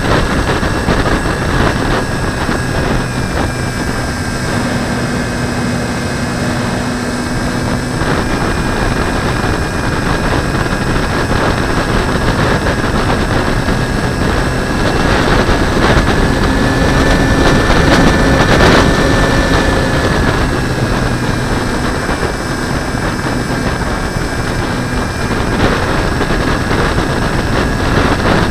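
Wind rushing hard over a wing-mounted camera in flight, a loud steady roar with thin high whistling tones that shift slightly in pitch partway through.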